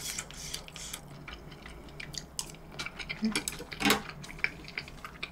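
A person eating curry and rice close to the microphone: soft chewing and small wet mouth clicks, with a sharper click about four seconds in.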